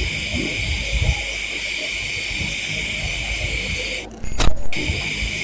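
Steady, loud chorus of night insects. It cuts out for about half a second near the end, when a single sharp click or knock is heard.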